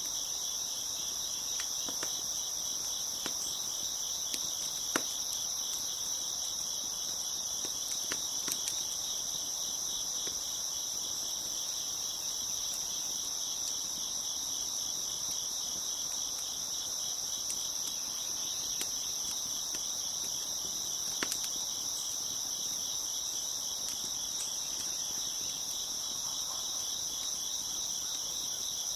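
Crickets chirping in a steady, dense high chorus, with a few sharp pops from a crackling wood fire, the loudest about five seconds in and again after about twenty seconds.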